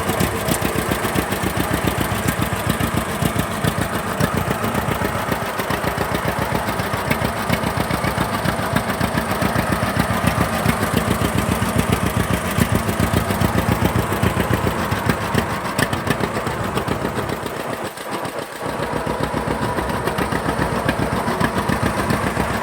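John Deere 60's two-cylinder engine running at idle with a steady popping firing beat, dipping briefly near the end.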